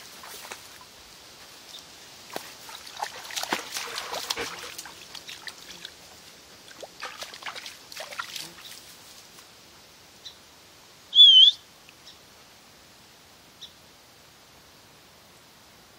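Scattered crackles and splashes of steps along a wet trail for the first half, then a single loud, wavering, high-pitched bird call about eleven seconds in, followed by a few faint short chirps.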